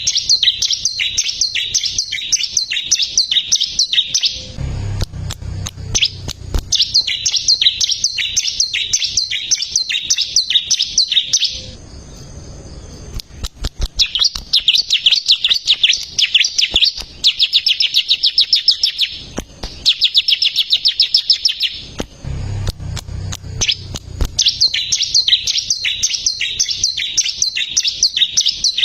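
Bar-winged prinia (ciblek) singing vigorously: long bursts of rapid, high repeated chirps, broken by short pauses twice. A low rumble sounds underneath twice, a few seconds in and again near the end.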